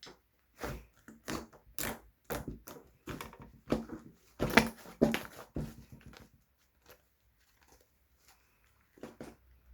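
Slime being squeezed and poked by hand, making irregular sticky crackles and pops about two a second. They die down to a few faint ones after about six seconds.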